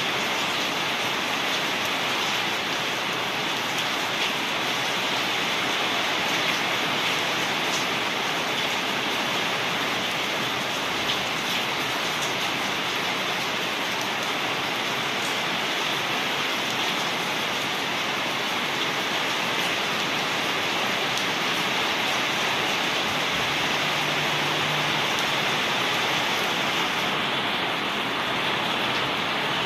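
Steady rain falling, an even hiss that does not let up, with a few faint drop ticks.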